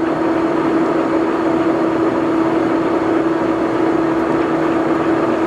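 Jet GH1880RX gap bed engine lathe running under power with its cross feed engaged: a steady mechanical hum with one held, even tone through it.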